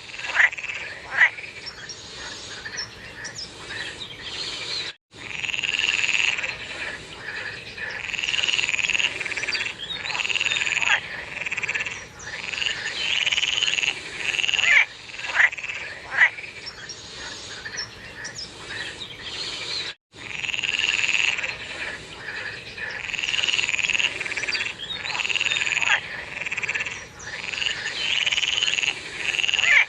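A chorus of many frogs calling together in the rainy season, with overlapping repeated croaks and a few sharp, short calls standing out. The sound cuts out completely for an instant twice.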